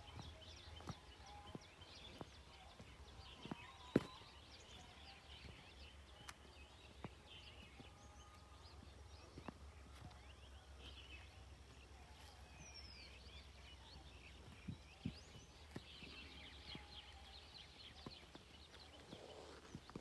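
Small birds chirping and twittering faintly throughout, several calls overlapping, over a low steady rumble, with a few scattered sharp clicks, the loudest about four seconds in.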